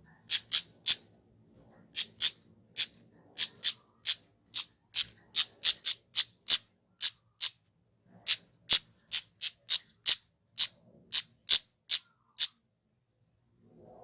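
Kemade flowerpecker calling: a run of short, sharp, high call notes, two or three a second with brief pauses, that stops near the end.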